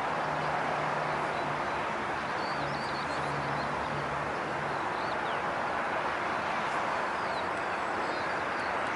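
Steady outdoor rushing noise with small birds chirping briefly a few times, and a low hum that comes and goes in the first half.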